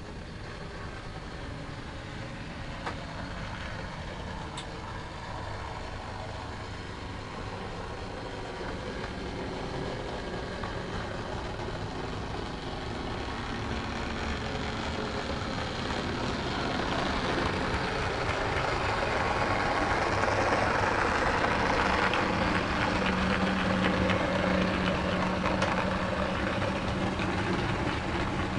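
OO gauge model diesel locomotive running, with a steady diesel engine sound and rolling noise, growing louder from about halfway through.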